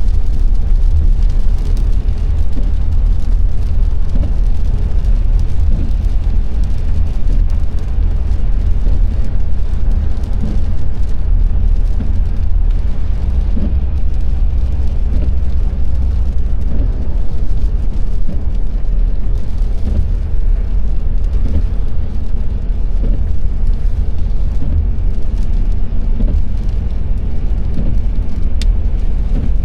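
A car driving on a rain-wet road: a steady, loud low rumble of tyres and engine, with a single short click near the end.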